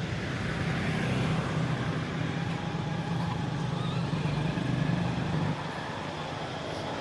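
A motor vehicle engine running steadily, its low hum cutting off suddenly about five and a half seconds in, with outdoor traffic noise behind it.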